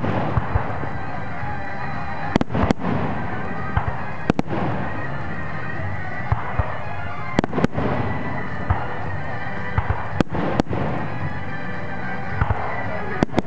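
Fireworks display: sharp bangs of shells bursting, about eight in all, some in quick pairs, every second or two over a continuous dense background of fireworks noise.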